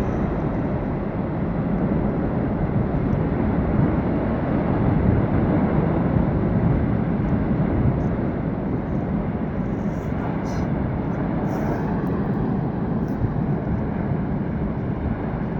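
Snow avalanche in the Himalaya giving a steady, deep rumbling roar that holds at the same strength throughout.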